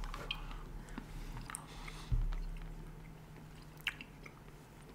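Quiet chewing of chewy Fujiya Milky milk candy, with faint wet mouth clicks. A soft low thump comes about two seconds in.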